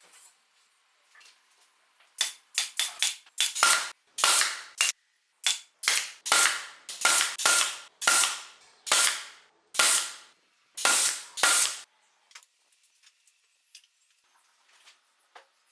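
Hammer blows, about twenty sharp strikes with a faint metallic ring. They come in a quick run at first, then settle to roughly one a second, and stop a few seconds before the end.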